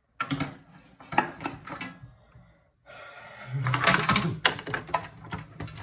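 Clicking, tapping and knocking as parts of a desktop computer case are handled and taken apart, metal and plastic pieces bumping together, with a short pause and then a busier clatter.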